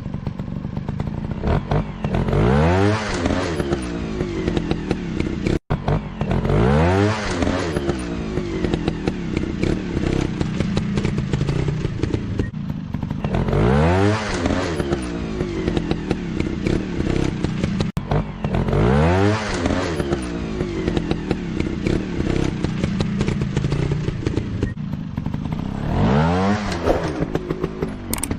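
Dirt-bike engine revving repeatedly: its pitch sweeps sharply up about five times, every four to seven seconds, between stretches of steadier running, with some rattling clatter.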